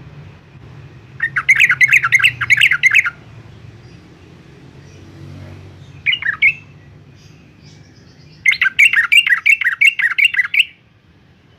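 Yellow-vented bulbul singing: two bursts of quick repeated notes, each about two seconds long, with a short call between them. A faint low hum runs underneath.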